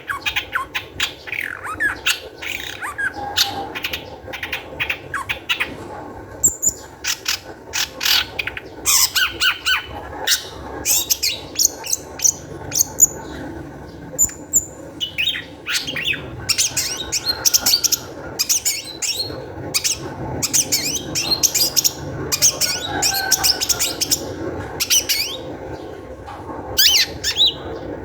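Long-tailed shrike (cendet) singing in an agitated state: fast runs of short, harsh, scratchy notes and chattering calls, broken by brief pauses.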